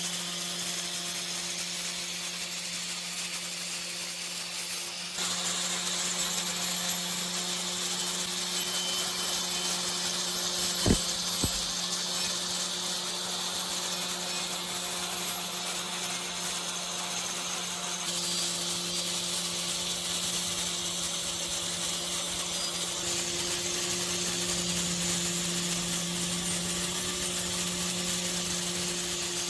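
Electric power tool running steadily on metal, a motor hum under a bright abrasive hiss, with a couple of sharp knocks about eleven seconds in.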